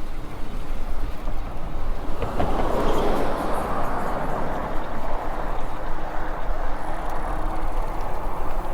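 Wind buffeting the microphone of a moving e-bike, a steady low rumble that swells into a louder rushing gust about two seconds in.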